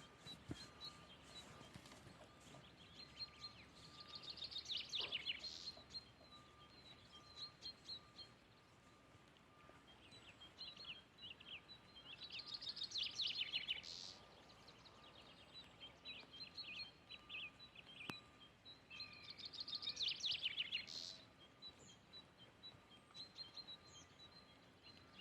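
A songbird singing: a loud, rapid trilled phrase three times, roughly every eight seconds, with softer twittering notes in between. A faint steady high tone runs underneath.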